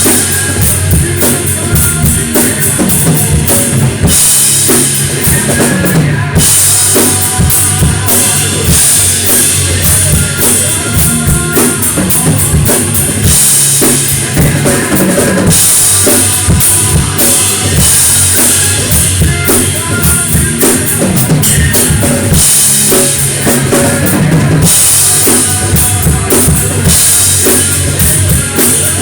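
Mapex Saturn drum kit played hard in a driving rock beat, with heavy bass drum and stretches of crash-cymbal wash. The recording is loud and distorted by clipping.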